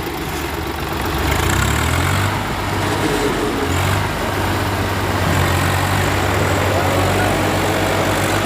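Tractor diesel engine running steadily, with small shifts in engine speed.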